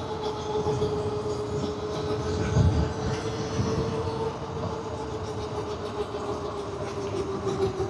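Terra Prime electric motorcycle's motor whining steadily while riding, the whine sinking slowly in pitch as it eases off, over road rumble. A low thump comes about two and a half seconds in.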